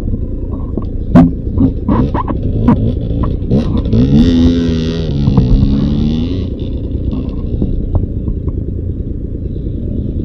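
Beta 300 RR two-stroke dirt bike engine running at low revs, with a series of sharp knocks and clatters in the first few seconds and a brief rise and fall in engine pitch about four seconds in.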